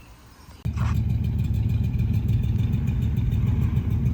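1977 Corvette's small-block V8 starting about a second in and settling into a steady idle through its new short side-exit exhaust pipes.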